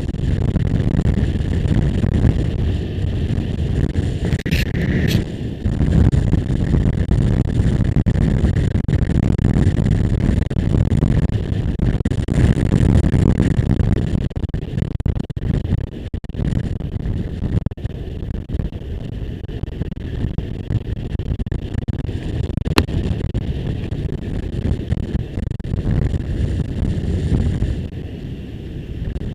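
Motorcycle riding at speed: wind rushing and buffeting over the microphone with the engine running underneath, broken by a few brief clicks. The rumble eases a little near the end.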